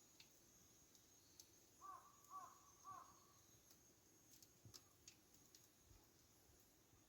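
A crow cawing three times in quick succession, faint and distant. Scattered soft pops and crackles from a wood campfire sound throughout.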